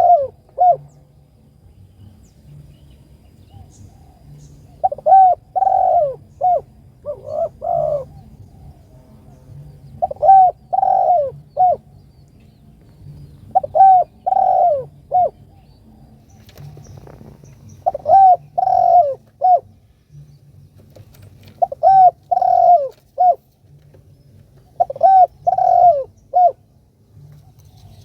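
Spotted dove (tekukur) calling: phrases of three or four cooing notes repeated every three to four seconds, the lure call used to draw other doves in.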